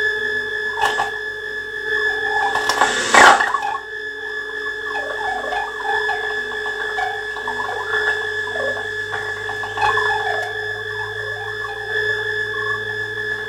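Experimental electronic noise music from analogue synthesizers: several steady high drone tones under warbling, chirping bleeps, with a loud crackling burst of noise about three seconds in.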